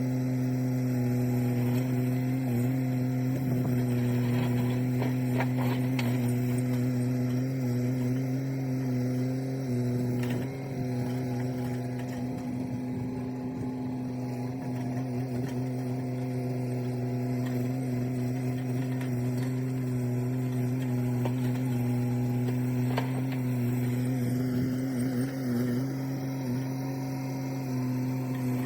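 Engine running steadily at a constant speed, an even low drone, with a few light knocks and rattles.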